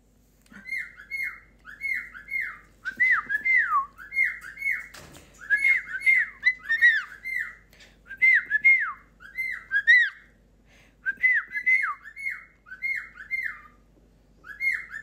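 Pet bird calling over and over: short squawky chirps, each dropping in pitch, in quick runs of two to four with brief pauses between runs.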